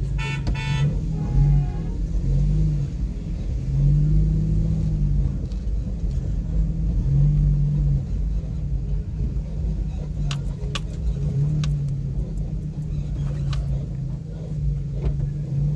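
A car driving, with a low rumble and an engine note that repeatedly rises and falls. A brief high-pitched tone sounds just after the start, and a few sharp ticks come in the second half.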